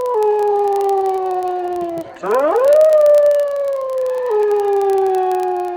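Wolf howling: a long howl that slowly sinks in pitch and fades about two seconds in, then a second howl that swoops up sharply and sinks slowly again over about three and a half seconds.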